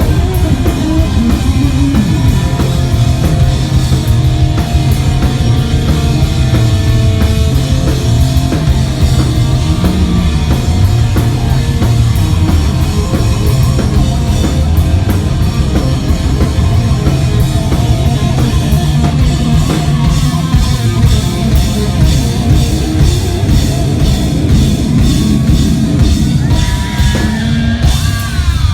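Live hard rock band playing loudly, with a pounding drum kit and electric guitars, heard through an audience recording. A falling pitch sweep comes near the end.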